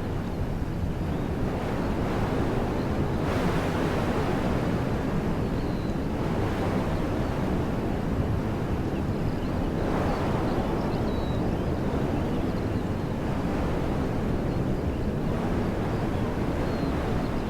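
Wind blowing through trees: a steady rushing that swells in gusts several times, over a low rumble. Faint bird chirps come through here and there.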